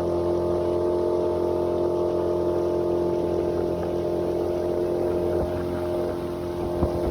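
Small boat's outboard motor running at a steady speed as the boat cruises along the lake, with water and wind noise beneath it.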